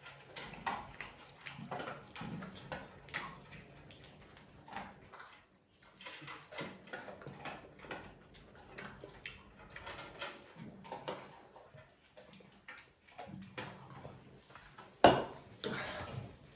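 Close-up mouth sounds of eating: chewing, with many short wet clicks, and gulps from a can of cola about halfway. About 15 seconds in, a sudden loud yell.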